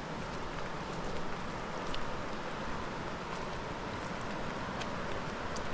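Steady rain falling, with scattered sharp drops striking close by.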